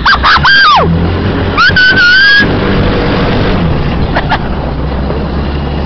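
A Kinroad XYKD-250 buggy's 250cc engine running with a steady low drone. High-pitched whooping cries come over it in the first couple of seconds and once more briefly near the middle.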